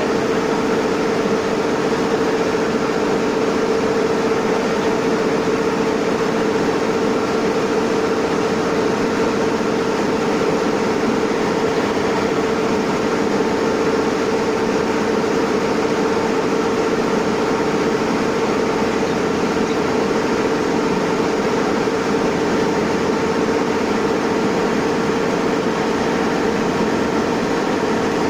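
Rice combine harvester running steadily: a constant, loud machine drone with a steady hum.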